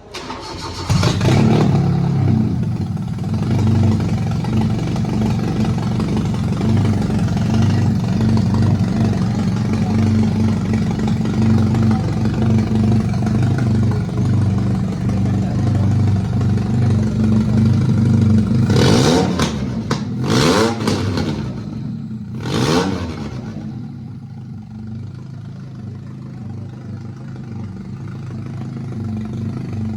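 Toyota Vitz engine swapped into a Suzuki Cultus, started about a second in and idling steadily, then revved three times in quick succession before dropping back to a quieter idle.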